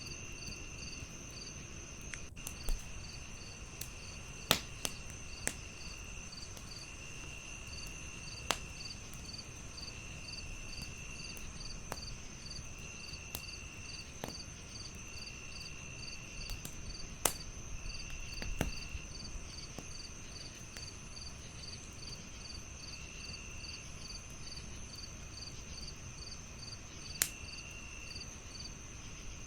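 Crickets chirping continuously: one steady high trill, one evenly pulsed chirp and a lower trill that comes and goes in one-second stretches. A wood fire crackles over them with scattered sharp pops, about eight clear ones.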